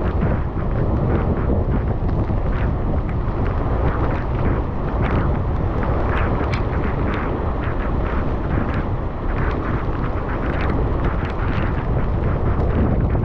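Steady wind buffeting the camera microphone on a moving bicycle, a dense low rumble with many scattered short ticks through it.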